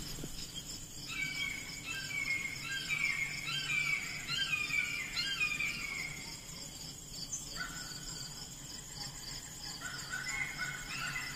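Birdsong: runs of short chirping notes, many sliding downward, over a steady high trilling chorus of insects.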